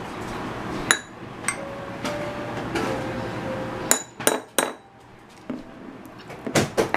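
Metal spoon clinking against a ceramic ramekin while spreading pizza sauce: a few sharp clinks with a short ring, a pair about a second in, a quick cluster of three about four seconds in, and two more near the end.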